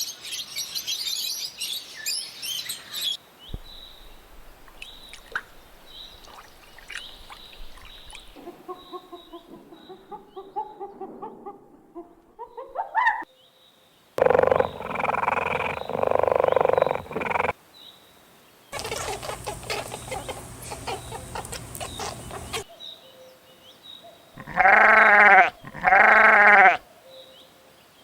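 A run of separate animal-call recordings cut one after another, each a few seconds long: high chirping calls first, then several other calls, and near the end two loud, drawn-out pitched calls in a row.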